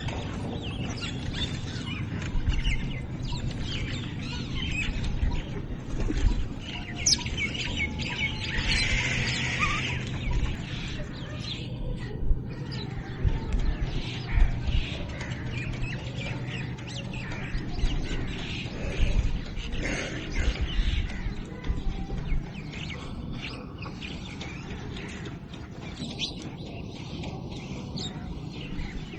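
Small birds chirping and calling, many short chirps, with a busy burst of chirping about nine seconds in. Underneath is a steady low rumble.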